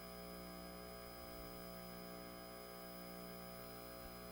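Faint, steady electrical hum in the broadcast audio: a buzzing stack of unchanging tones.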